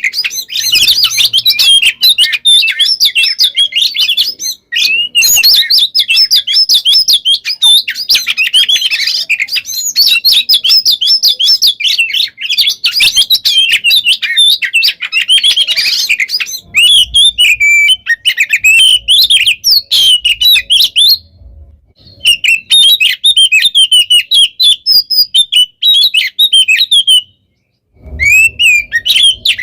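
Oriental magpie-robin (kacer) singing a loud, rapid, nearly unbroken stream of varied whistled and chattering notes, the dense nonstop song keepers call 'gacor'. There are brief pauses a little past twenty seconds in and again near the end.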